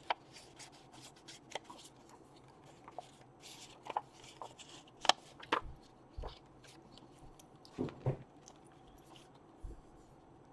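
Paper rustling and handling, with scattered light taps and clicks as the edges of paper are rubbed with an ink pad. The sharpest click comes about five seconds in.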